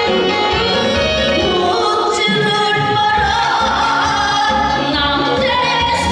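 A singer's voice over a trot backing track, holding long notes that slide between pitches.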